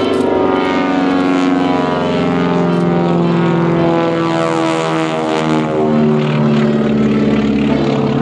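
Beech 18's twin radial engines and propellers running loud during a low airshow pass, the engine pitch shifting as the aircraft goes by.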